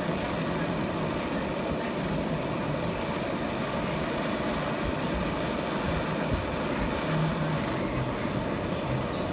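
Gas brazing torch flame burning with a steady roar while copper is brazed with silver brazing rod.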